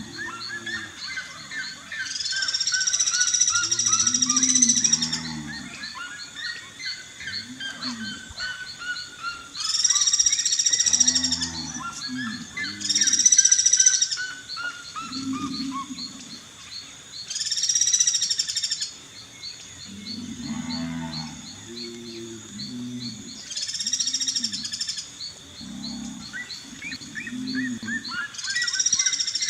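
Several wild birds calling in open country over a steady high insect drone. Runs of falling whistled notes repeat, harsh loud calls lasting a second or two come every few seconds, and low pulsing hoots continue underneath.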